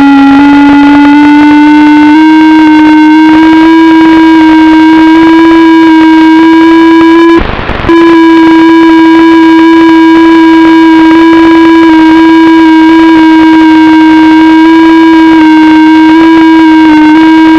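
FPV quadcopter motors whining at a steady throttle, loud and holding one pitch with slight wavers, with a brief break about seven and a half seconds in.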